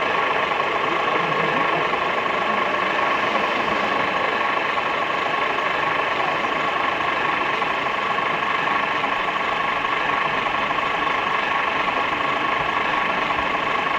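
Steady engine-like idling from RC construction models, with a constant high whine over it.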